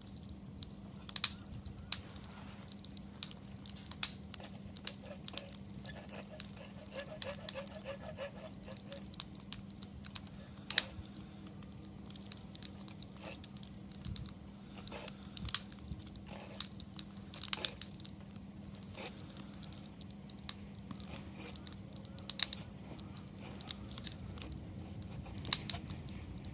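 Wood campfire crackling: irregular sharp pops and snaps, some louder than others, over a faint steady low hum.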